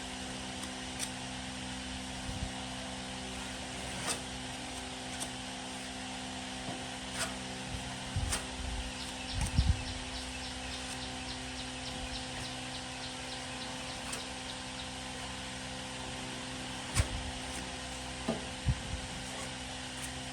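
Steady mechanical hum with several held tones, broken by scattered knocks and clicks, a few louder thuds in the middle and near the end, and a quick run of light ticks about nine seconds in.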